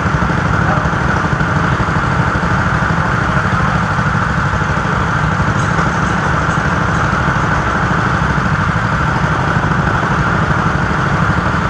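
Go-kart engine running steadily at an even pitch, with no revving up or down.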